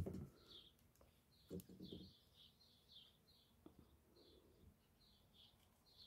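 Faint bird chirping: a quick run of short, high chirps, two or three a second. Soft handling knocks come about one and a half to two seconds in.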